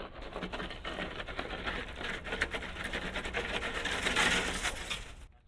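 Clattering and scraping of a portable air compressor being moved and loaded into a truck: a dense rattle that builds up and stops suddenly near the end.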